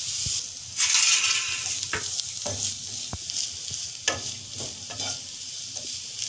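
Chopped onion and bitter-gourd peelings sizzling in oil in a nonstick wok while a wooden spatula stirs them, scraping and knocking against the pan several times. The sizzle swells about a second in as the food is turned.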